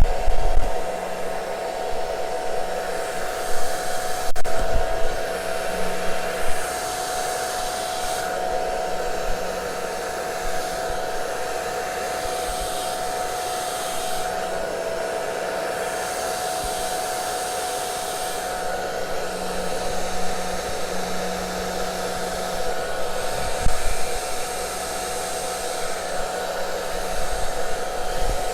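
Handheld hair dryer running steadily, blowing air across wet acrylic paint, with a constant motor hum; the hiss of the airflow swells and fades several times as the dryer is moved.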